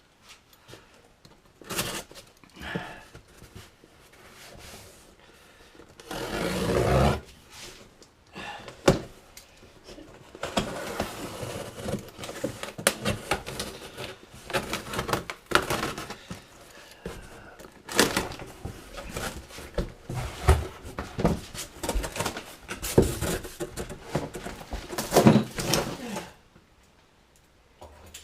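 Cardboard parcel being opened by hand: tape tearing and cardboard flaps scraping, rustling and knocking. There is a longer tearing or scraping stretch about six seconds in, and busy handling noise after it that dies away near the end.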